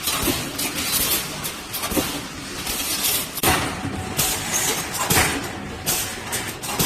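Pneumatic steel mesh welding machine running: a steady mechanical noise with irregular metallic clanks and knocks every half second or so.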